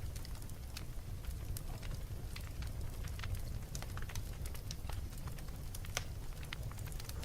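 Fire crackling: a steady low rumble of burning with frequent sharp, irregular pops and snaps.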